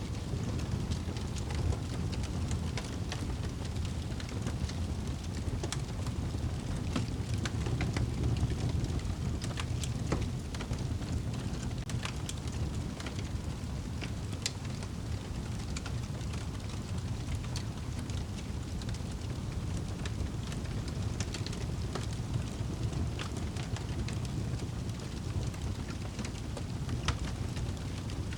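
Wood fire crackling in a fireplace: a steady low rush of burning with many irregular sharp pops and snaps.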